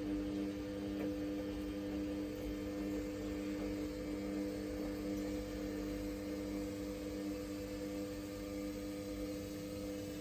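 Samsung WF1700WRW front-loading washing machine humming steadily mid-cycle, one even electrical hum with no change in pitch.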